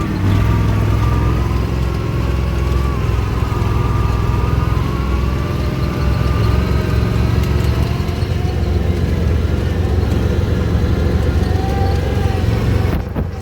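Off-road vehicle engine running steadily, with a wavering whine above the low engine note. The sound drops in level just before the end.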